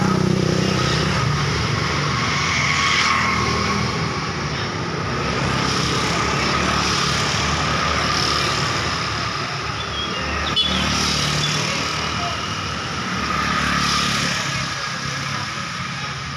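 Road traffic passing in a steady stream, the noise swelling and easing as vehicles go by, with a sharp click about ten seconds in.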